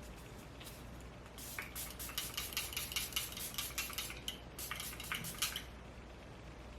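Makeup setting spray pump bottle misted onto the face in a quick run of short hissing sprays, about five a second, for around four seconds.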